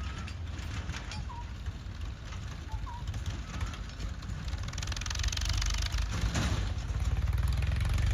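Heavy diesel engine running steadily with a low rumble that grows louder about five seconds in. Two short, faint high chirps are heard in the first few seconds.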